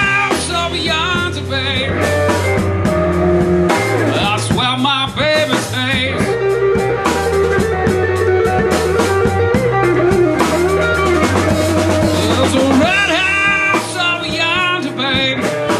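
Blues band playing an instrumental passage: a guitar lead with bent, wavering notes over bass and drum kit.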